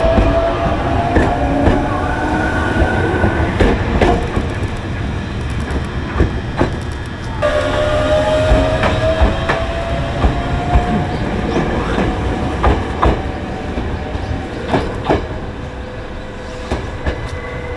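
Ueda Electric Railway Bessho Line electric train running, its wheels clicking over rail joints. A thin whine slowly rises in pitch, breaks off about seven seconds in, then comes back and slowly falls.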